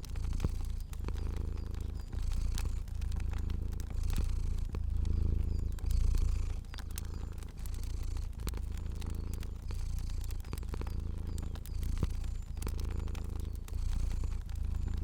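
Cat purring in a low, steady rumble that swells and dips about once a second with each breath, with scattered sharp crackles of a fire over it.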